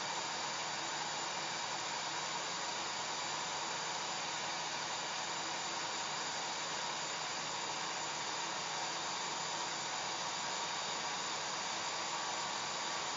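Hair dryer running steadily: an even blowing hiss with a faint motor hum, unchanging throughout.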